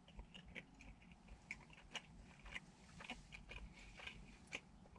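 A person chewing a mouthful of bacon-wrapped deep dish pizza: faint, irregular mouth clicks and smacks, a few each second.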